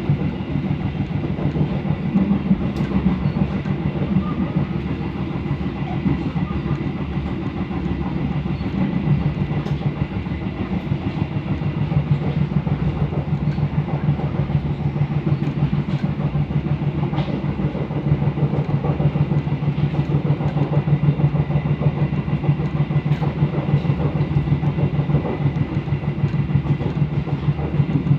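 Passenger train running along the track, heard from on board: a steady rumble with a fast throb and occasional faint clicks from the wheels and rails.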